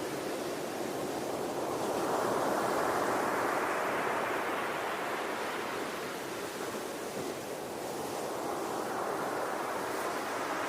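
Ocean waves washing onto a shore, a continuous rushing that swells about two seconds in, eases off midway and builds again toward the end.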